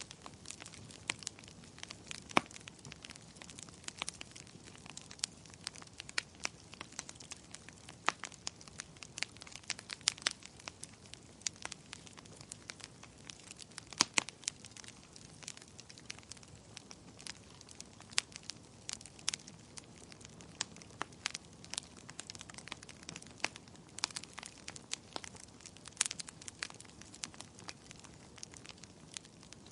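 Wood fire crackling in a fireplace: irregular sharp pops and snaps, several a second, over a soft hiss of flame.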